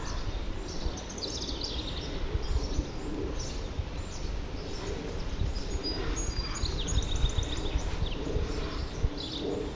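Small birds chirping and singing in short, high calls, with a few whistled notes about halfway through, over a steady low rumble.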